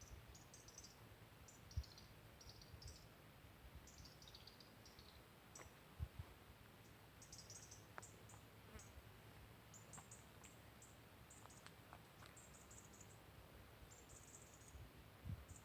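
Small birds chirping and twittering faintly in quick high-pitched bursts of short notes, some sliding downward, with a few soft low thumps.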